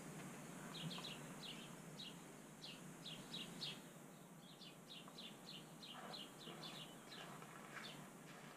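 Small birds chirping faintly: short, high chirps in quick clusters of two or three, repeated over a steady low outdoor hiss.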